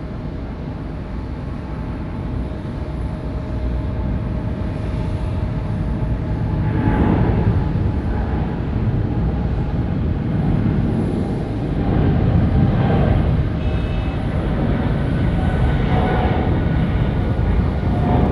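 Jet airliner engines rumbling loud and close, a deep roar that swells about seven seconds in and stays loud, rising and falling in waves.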